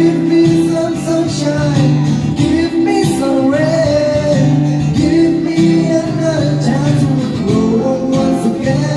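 Music: a male voice singing a melody over acoustic guitar, with long held notes.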